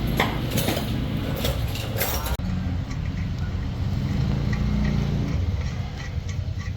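Metal tools and parts clinking in the first two seconds, then, after an abrupt change, a steady low mechanical rumble with faint regular ticks about twice a second.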